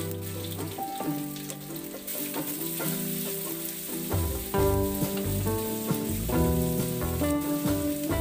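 Onion slices and carrot sticks sizzling in hot oil in a wok; the sizzle gets brighter about two seconds in. Background music plays underneath.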